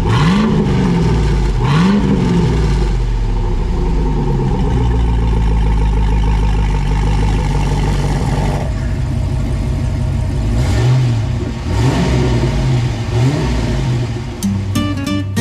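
LS V8 engine in a Toyota FJ62 Land Cruiser being revved: two quick blips, a steady run of several seconds, then three more blips.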